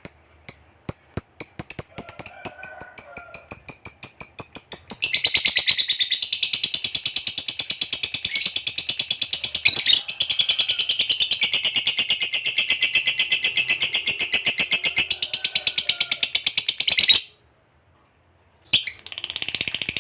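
Lovebird calling: sharp, high chirps that quicken over about five seconds into a long, unbroken rapid chatter (the prized "ngekek panjang"). The chatter lasts about twelve seconds and breaks off suddenly. After a short silence, a new run of quickening chirps begins near the end.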